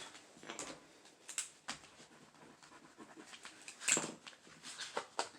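Scratch-off lottery ticket being scratched: short rasping strokes at irregular intervals, the loudest about four seconds in.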